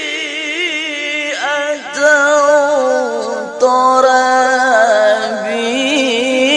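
A single voice singing long, ornamented notes in the melodic style of Quran recitation (qiraah), the pitch wavering in fine trills. The line breaks briefly for breath about a second and a half in and again about three and a half seconds in.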